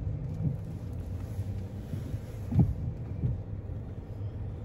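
Car engine idling, heard from inside the parked car as a steady low rumble, with a few short, soft low thumps; the loudest comes about two and a half seconds in.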